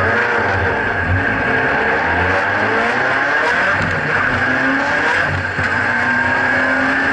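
Turbocharged SR20DET four-cylinder engine of a modified Nissan 180SX drift car, heard from inside the cabin, running hard with its revs rising and falling, over a steady high whine.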